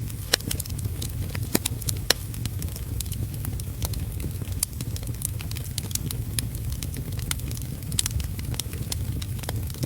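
Wood fire crackling, with frequent sharp pops over a steady low rumble of heavy rain.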